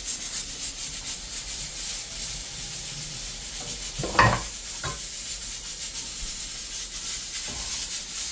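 Steady hiss of a pot heating on a stove burner, with a sharp knock about four seconds in and a lighter one just after.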